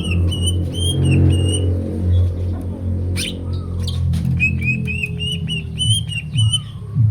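Cucak ijo (green leafbird) singing: quick runs of short, repeated whistled notes, one run in the first two seconds and another from about halfway to near the end, with a gap between.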